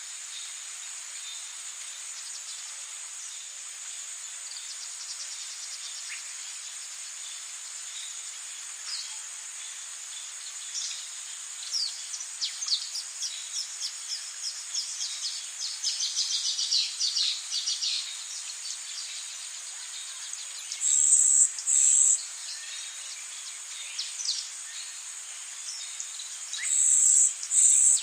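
Rainforest ambience: a steady high-pitched insect drone over a soft hiss. In the middle a bird calls in a long run of quick, falling notes, and near the end two loud, high buzzes come in pairs, about six seconds apart.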